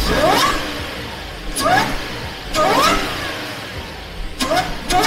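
Audi B8 S4's 3.0-litre supercharged V6, breathing through an open-cone cold air intake, revved in four quick blips. Each blip brings a rising supercharger whine over the intake noise.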